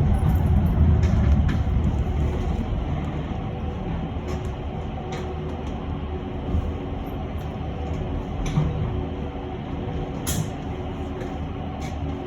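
Electric bus cabin under way: low road rumble with a faint steady electric whine and occasional small clicks and rattles. The rumble eases over the first few seconds.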